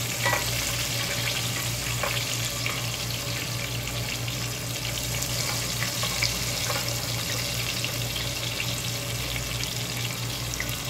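Shrimp frying in hot oil in a pot: a steady sizzle with scattered crackles, and now and then a sharp click of metal tongs turning the shrimp against the pot, over a steady low hum.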